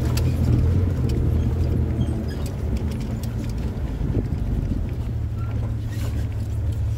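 Off-road Jeep's engine running at low speed, a steady low drone, with scattered clicks and rattles; the drone eases off a little about two seconds in.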